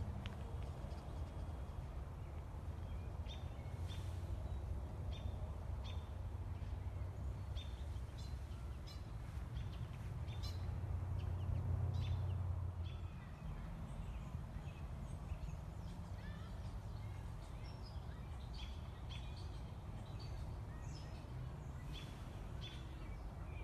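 Songbirds chirping and calling, short separate notes scattered throughout, over a steady low rumble that swells briefly in the middle.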